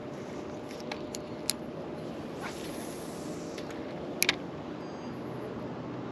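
Steady outdoor background noise on the water, with a faint low hum. A sharp click comes about a second and a half in, and a louder double click a little after four seconds.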